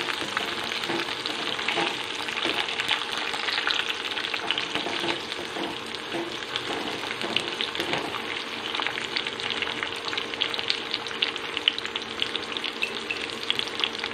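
Sliced onions, green chillies and curry leaves sizzling and crackling in hot sesame oil in a kadai as the onions sauté, with a few scrapes of a wooden spatula in the first half. The crackling grows thicker in the second half, over a faint steady hum.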